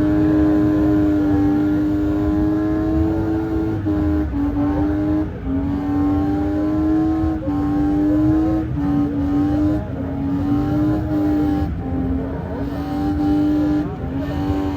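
Car engine held at high revs, its pitch steady but dipping briefly every second or two as the throttle is eased and pressed again.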